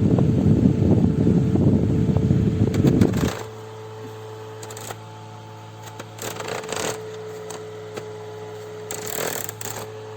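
Battery-powered camping fan blowing onto the microphone as a loud rush of air that cuts off suddenly about three seconds in, leaving a low steady hum. A few light clicks and handling knocks follow.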